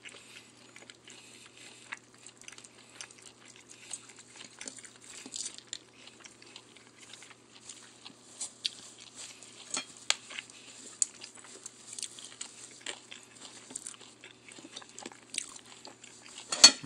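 A person chewing sticky rice and pounded snake bean salad close to the microphone: many small, irregular wet mouth clicks and crunches, with one louder mouth noise about a second before the end.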